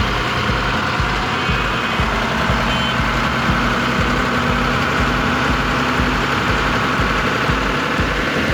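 Tractor-style engine running steadily at idle with a regular low throb.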